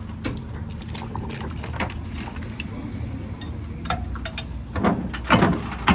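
Hand tools clicking and clanking on the metal parts of a rear axle differential being taken apart, over a low steady hum. Near the end come several louder, rasping strokes of a tool working.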